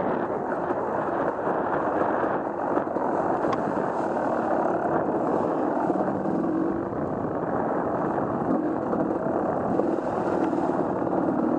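Off-road vehicle engine running steadily under way.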